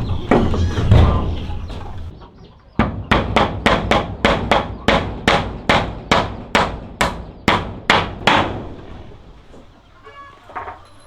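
Hammer striking wood in a steady run of about fourteen blows, roughly two and a half a second, starting a few seconds in and stopping before the end.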